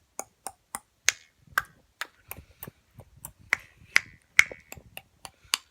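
A run of short, sharp clicks at an uneven pace of about three a second, with the strongest few a little past the middle.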